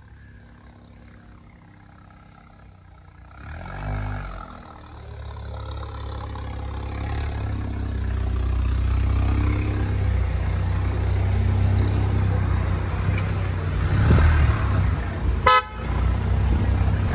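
Volkswagen Golf 8's 1.5 eTSI turbo four-cylinder running through an aftermarket downpipe and valved exhaust. It is low at first, swells briefly about four seconds in, then builds into a steady, louder drone as the car pulls away. A short sharp sound with a brief drop in level comes near the end.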